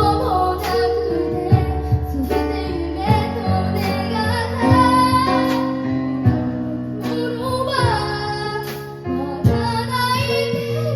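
Live band music: a child singing a melody over sustained keyboard chords, with drum-kit hits punctuating the beat.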